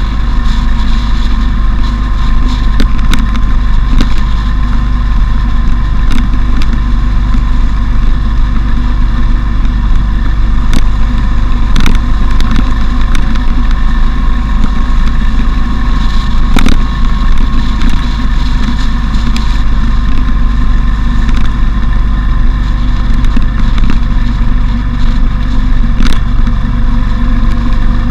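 Motorcycle riding along with steady, loud wind rush on an action camera's microphone and the engine running evenly underneath. A few sharp clicks come through over it.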